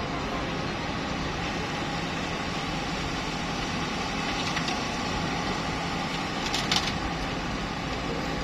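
Truck engine running steadily under a constant rushing noise, with one short knock about seven seconds in.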